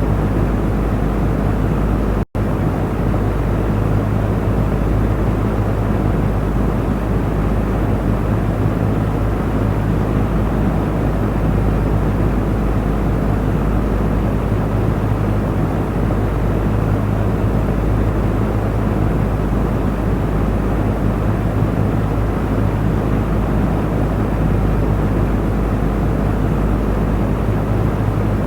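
Electric fan running steadily: an even whirring rush of air over a low motor hum. The sound drops out for a split second about two seconds in.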